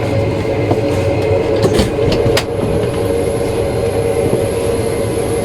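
Steady hum of an airliner cabin's ventilation and aircraft systems. A couple of sharp clicks come about two seconds in, followed by a thin high whine that holds steady.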